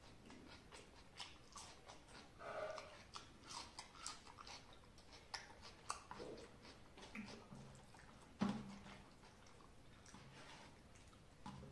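A person chewing mouthfuls of rice eaten by hand: soft, irregular mouth clicks and chewing sounds, with one sharper knock about eight and a half seconds in.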